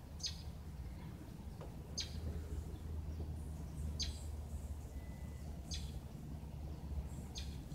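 A bird calling, a short high chirp repeated about every two seconds, over a steady low hum.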